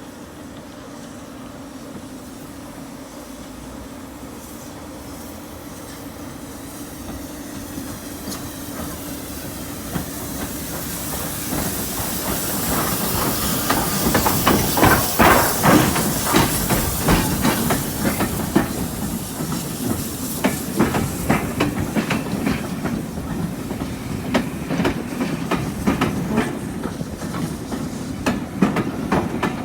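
Heritage railway train running on jointed track, at first a steady hum, then growing louder about halfway through into a rapid, rhythmic clickety-clack of wheels over the rail joints.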